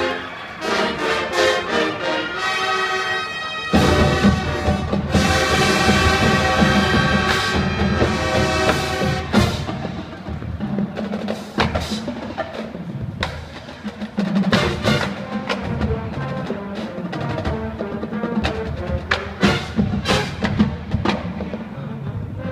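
A school wind band playing, with brass, timpani and percussion. The full band comes in loudly about four seconds in, then gives way to sparser passages marked by sharp drum and percussion strokes.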